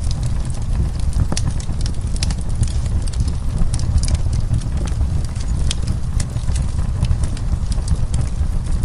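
Wood fire crackling, with frequent irregular sharp pops and snaps over a steady low rumble of the burning fire.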